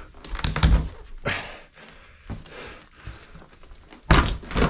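Old carpet being pulled up and handled: a few thuds and knocks in the first second or so, then a sudden loud, ragged scraping noise starting about four seconds in.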